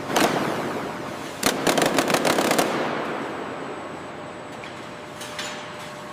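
Bursts of rapid sharp knocks, a couple right at the start and a quick run of about eight about a second and a half in, over a loud noisy haze that fades away. A few faint clicks near the end.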